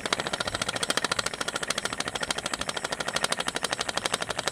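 Ceiling fan motor without blades, switched off and coasting down, rattling with a rapid, even knocking of about ten clicks a second. The repairer traces the knock to the bearing sitting loose in a worn, pitted bearing seat.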